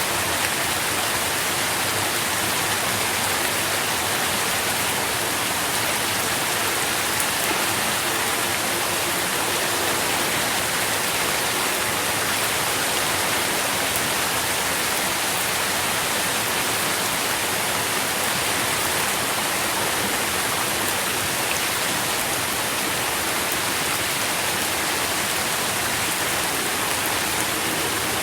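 Steady rain falling, with drops pattering on leaves.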